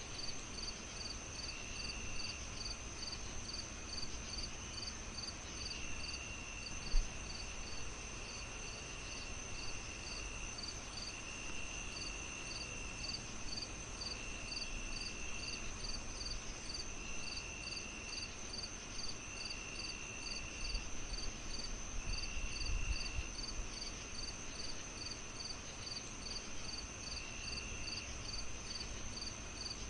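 Crickets chirping steadily, about two chirps a second, over a constant high insect trill, with lower trills coming and going for about a second at a time. Beneath them runs a low crackling fire, with one sharp pop about seven seconds in.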